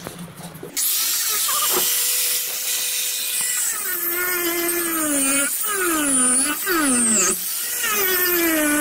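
A power grinder starts about a second in and runs steadily, its motor whine dropping and rising again several times as it is pressed into the work and eased off.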